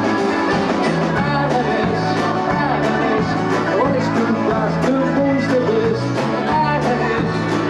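Rock band music in an instrumental passage: a steady bass and drum beat under a lead melody line that bends in pitch.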